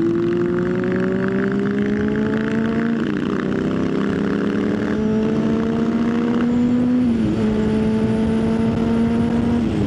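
Motorcycle engine under way, heard from the rider's seat with wind rush: the engine pitch climbs slowly and drops in steps about 3, 5 and 7 seconds in as the rider changes gear or eases off the throttle.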